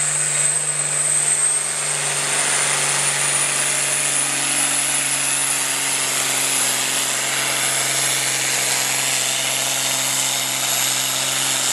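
Farm stock diesel tractor engine running hard under load, with a thin high whine that slowly climbs in pitch.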